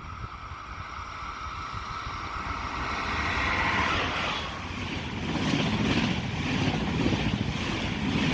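A train approaching and running past, growing steadily louder, with a steady high whine in the first half.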